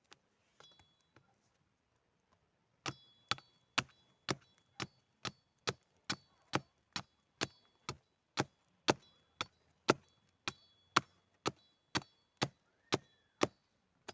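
Steady hammering: about two sharp blows a second, each with a brief metallic ring, starting about three seconds in and stopping just before the end.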